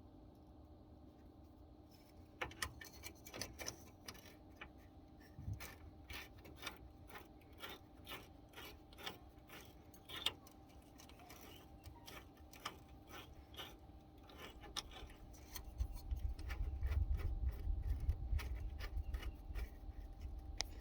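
Wrenches working on the metal fuel-line fittings of a fuel filter: irregular metallic clicks, ticks and scraping. A low rumbling takes over for the last few seconds.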